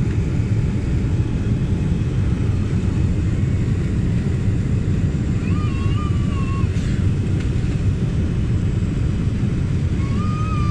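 Steady low rumble of an airliner heard from inside the cabin, with a faint wavering tone coming and going about six seconds in and again near the end.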